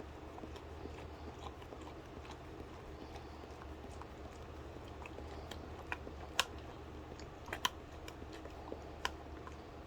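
A dog licking and eating whipped cream from a small cup: faint wet licking and mouthing with a few sharp clicks and taps, the loudest about six and a half and seven and a half seconds in. A low steady hum runs underneath.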